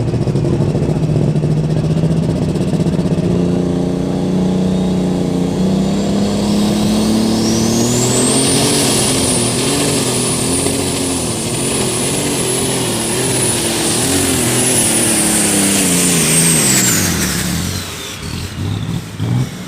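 Turbocharged super stock pulling tractor making a full pull under load: the engine note climbs and wavers, and a high turbo whine rises about seven seconds in and holds as a steady scream. Near the end the engine throttles off and the whine falls away.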